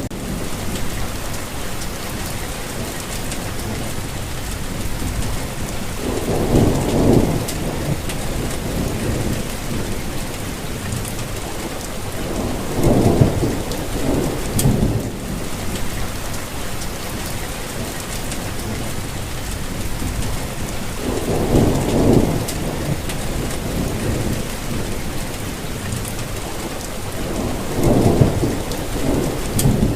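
Steady rain falling, an even hiss, with low rolling rumbles of thunder swelling and fading four times.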